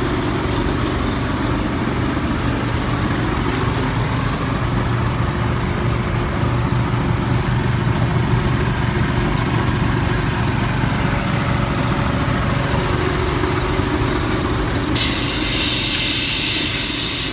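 Heavy truck diesel engine idling steadily. About fifteen seconds in, a loud hiss of compressed air starts suddenly and runs for a couple of seconds.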